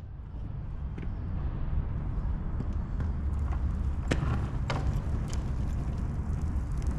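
Skateboard wheels rolling on concrete: a steady low rumble that builds over the first couple of seconds, with a few sharp clicks and knocks about four seconds in.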